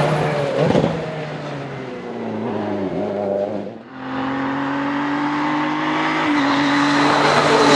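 Rally car engine running hard on a stage, with a short lift off the throttle just before halfway, after which the engine note pulls steadily again and slowly rises.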